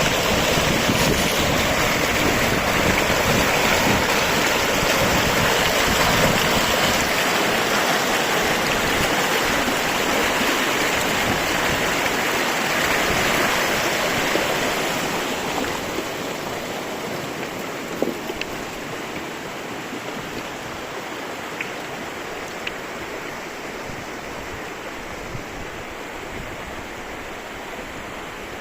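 River water rushing steadily over a stream bed. It becomes somewhat quieter after about fifteen seconds, with a couple of faint clicks later on.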